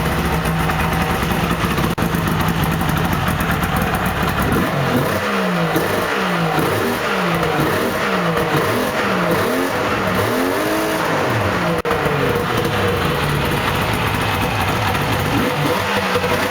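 Yamaha snowmobile's two-stroke engine running after a cold start: steady at first, then from about five seconds in revved up and down over and over, settling back to a steady run near the end. The owner blames its poor running on bad gas.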